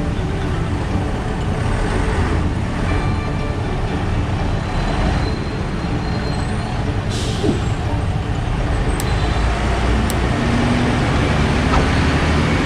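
Heavy road traffic: steady rumble of engines and tyres from buses, trucks and cars, with a short hiss about seven seconds in.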